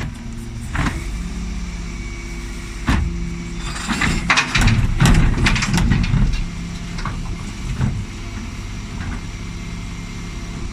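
Dennis Elite 6 bin lorry's diesel engine running steadily, with scattered knocks and a burst of clattering about four to six seconds in.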